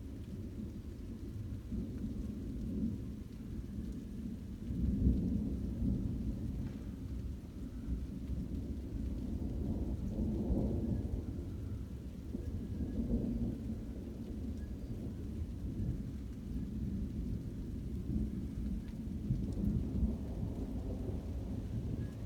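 Continuous rolling thunder from a thunderstorm: a low rumble that keeps swelling and fading, with its loudest peak about five seconds in and further swells around the middle and near the end.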